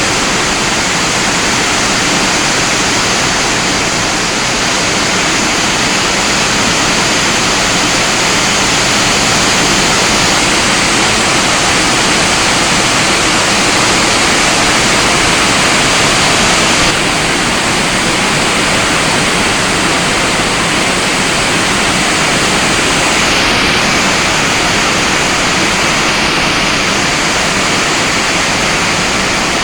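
Heavy rain pouring steadily, a loud even hiss that changes abruptly in tone about halfway through.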